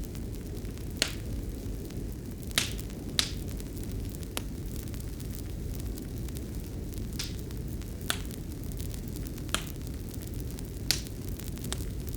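Fireplace fire burning with a steady low rumble and about nine sharp, irregularly spaced crackles and pops from the burning wood.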